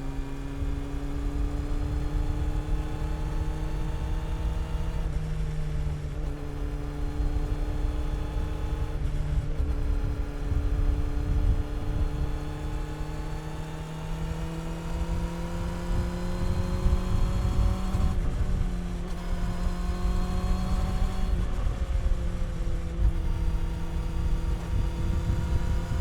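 Honda CB400 Super Four's inline-four engine and exhaust running under way. The note climbs gradually in pitch and drops back a few times where gears change or the throttle eases.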